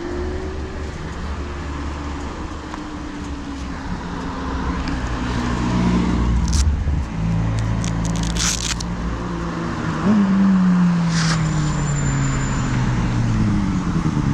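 Road vehicles' engines running and passing by. One starts about ten seconds in and drops in pitch as it goes past. A few sharp clicks sound in the middle.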